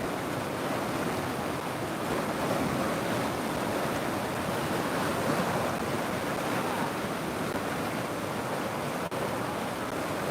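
River water rushing in a steady, unbroken flow, with a momentary break in the sound about nine seconds in.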